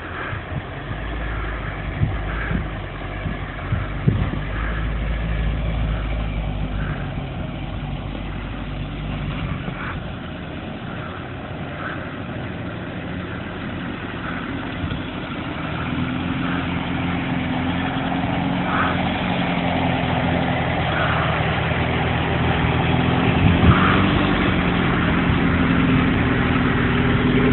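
Car engine running as the car drives through tall grass, growing louder as it comes close, then running steadily nearby in the second half.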